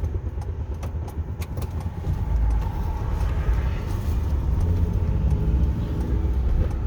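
Truck engine and road rumble heard from inside the cab as the truck pulls away, growing louder about two seconds in as it picks up speed.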